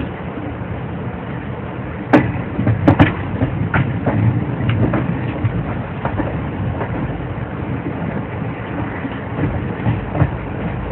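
A train rolling along the track: a steady rumble of wheels on rails, with a few sharp clacks about two to three seconds in and lighter ticks after.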